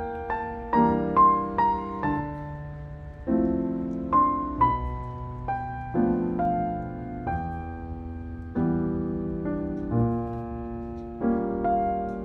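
Background music: a slow, gentle piano piece, chords and single melody notes each struck and left to ring.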